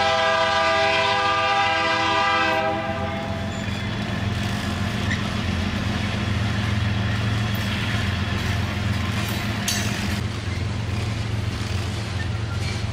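Diesel locomotive air horn sounding one long multi-note chord that cuts off about two and a half seconds in, followed by the steady rumble and clatter of a loaded grain train's covered hopper cars rolling past slowly.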